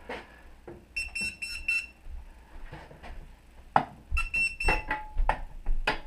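Electronic beeping: a quick run of about five short high beeps about a second in and another run about four seconds in, followed by a brief lower tone, amid scattered clicks and knocks.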